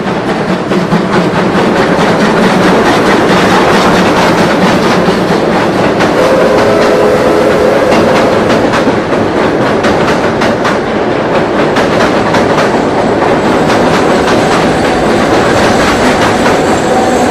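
Steam-hauled passenger train of orange coaches rolling across a steel girder railway bridge: a loud, steady rumble with the wheels clacking over the rail joints. A brief steady squeal comes from the wheels about six seconds in.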